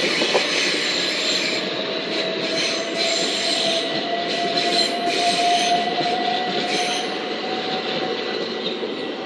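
Southern Class 377 electric multiple unit moving through the platform, a steady rumble with a thin squeal from the wheels or brakes that creeps slightly upward in pitch over several seconds.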